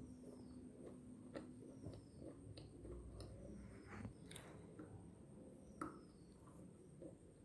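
Faint chewing of a crunchy slate stick, with scattered soft clicks and a sharper crunch about six seconds in as the stick meets her teeth.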